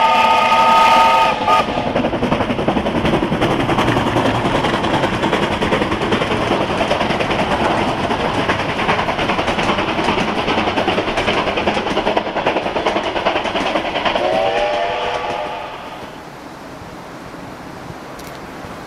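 Steam locomotive sounding a chime whistle chord, running with a steady rush and clatter, then blowing the chord again near the end, its pitch bending upward as it opens. The train noise drops away after the second whistle.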